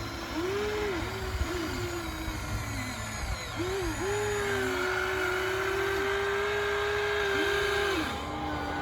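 Small electric motors of radio-controlled toy construction machines whining. They start and stop in several short bursts, then run steadily for about four seconds before cutting off, over a low rumble.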